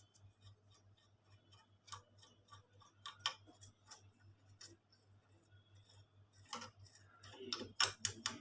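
Irregular light clicks and taps as the opened embroidery machine's parts and covers are handled during cleaning, a few louder knocks near the end, over a faint steady low hum.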